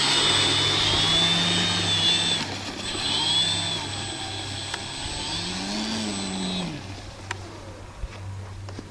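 Motor of a scratch-built RC model plane run on the ground, its pitch rising and falling several times as the throttle is worked, with a high steady whine; it winds down and fades about seven seconds in.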